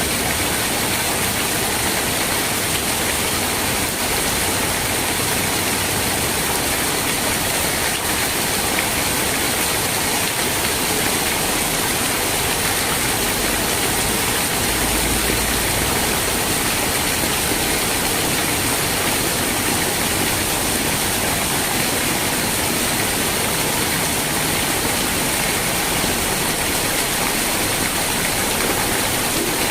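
Steady rain: an even, unbroken hiss of falling rain, strongest in the highs.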